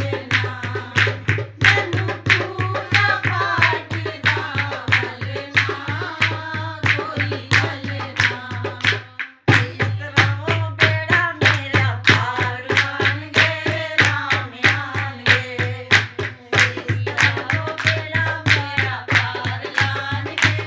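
Bhajan music: a melodic line, likely a singing voice, over a steady, quick tabla-like drum beat. The music cuts out for a moment about nine seconds in, then resumes.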